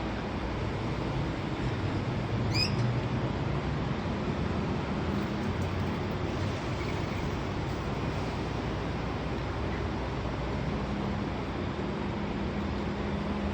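Steady background rumble and hiss, with a single brief high chirp from a lorikeet about two and a half seconds in.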